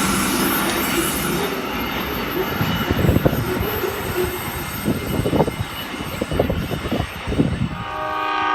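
A train passing on the rails with a steady rumble that slowly fades, broken by short wheel squeals and clacks. Near the end, a train horn starts sounding a steady chord.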